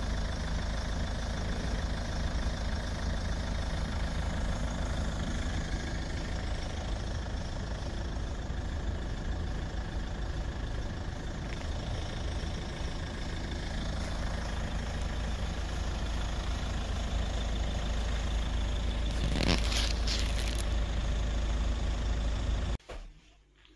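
Car engine idling steadily, with a brief rush of noise about nineteen seconds in. The sound cuts off suddenly near the end.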